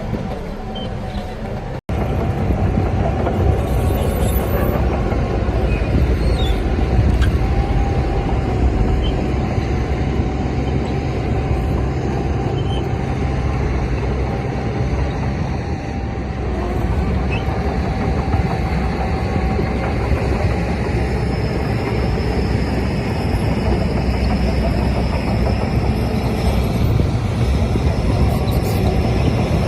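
Heavy diesel earthmoving machinery running steadily under load, with a faint held whine above the engine rumble. A brief break about two seconds in, after which it is louder.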